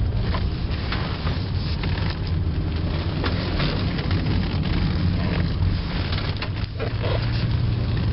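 1997 Toyota Avalon with its 1MZ V6 driving through a sharp right turn toward full lock: a steady low engine and road rumble with a few scattered faint clicks. No suspension noise can be heard in the turn.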